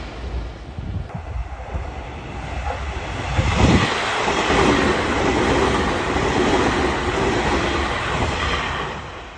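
Keio Inokashira Line electric train running past on the rails. It grows louder about three seconds in and fades away near the end.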